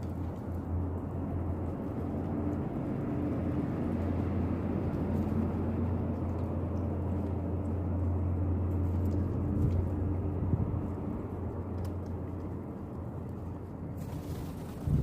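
A low, steady engine drone that swells over several seconds and fades away again, like a motor passing at a distance. A brief loud knock or rustle comes at the very end.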